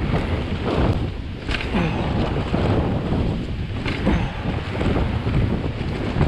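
Strong gusting wind buffeting the microphone during a mountain bike descent, a heavy, uneven rumble. A couple of sharp knocks from the bike come through, about a second and a half in and again about four seconds in.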